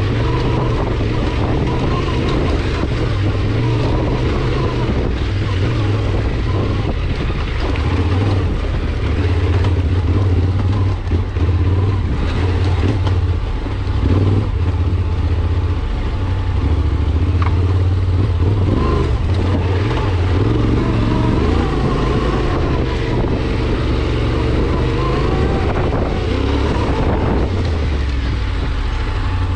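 A vehicle's engine running steadily with a low drone that shifts a little as it is driven, with occasional knocks and rattles over it.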